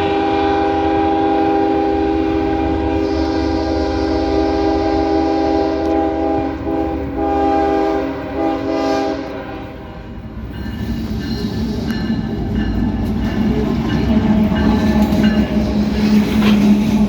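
GE diesel locomotives running light sounding a long air-horn chord, which ends about ten seconds in. Then the locomotives' engine and wheel rumble grows louder as they come by.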